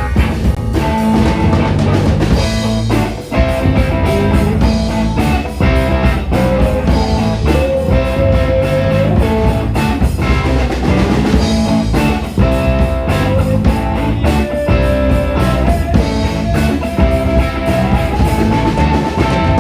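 Live band playing an instrumental passage of a funk-rock number: a sustained guitar line with bending notes over bass and a drum kit.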